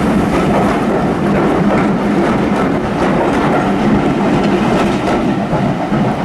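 Heritage railway train pulling away with its locomotive worked hard, making a loud, steady running noise as it picks up speed.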